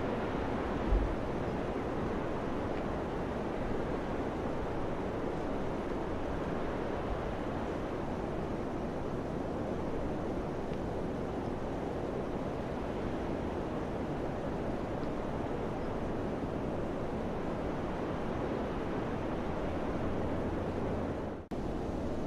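Steady wind blowing with a constant rushing noise, with a low gust buffet on the microphone about a second in and a brief cut-out in the sound near the end.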